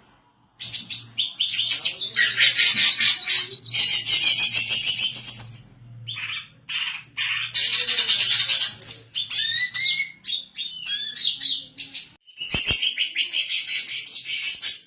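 Female greater green leafbird (cucak ijo) singing in fast, dense runs of chirps and trills, several seconds at a time, with short breaks between runs.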